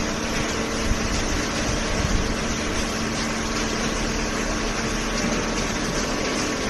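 Hydraulic baler's pump and motor running steadily: an even mechanical noise with a constant hum.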